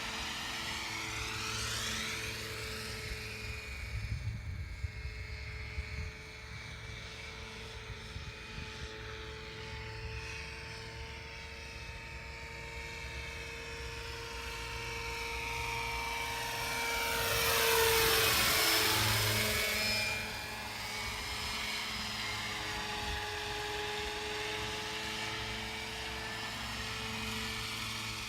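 Radio-controlled scale Agusta AW139 model helicopter in flight: a steady high whine from the motor and rotors. It grows loudest as the model passes close, about two-thirds through, then drops off suddenly.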